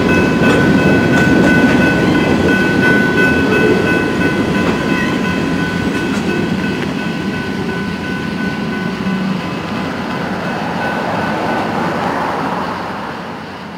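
Freight train's last cars rolling past on the rails, the rumble fading as the train moves away. A railroad crossing bell rings over it and stops about halfway through.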